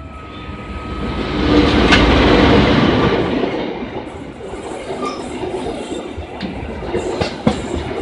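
Diesel-hauled passenger train passing close by over a short bridge. The sound swells to its loudest about two seconds in as the front of the train goes by, then the coaches roll past with wheels clacking and knocking over the rail joints.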